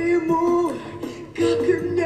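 Female vocalist singing held, gliding notes over a musical accompaniment, with a short break about a second and a half in.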